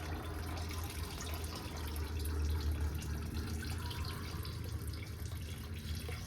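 Gasoline running steadily out of a disconnected fuel line and splattering into a catch container, a continuous trickle with many drips.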